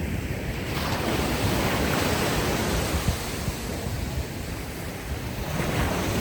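Ocean waves washing up a beach: one wave swells and rushes in about a second in, eases off after a few seconds, and the next begins near the end. Wind rumbles on the microphone underneath.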